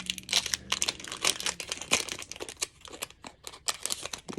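Foil wrapper of a Pokémon booster pack crinkling and tearing as it is opened by hand, a dense run of irregular crackles.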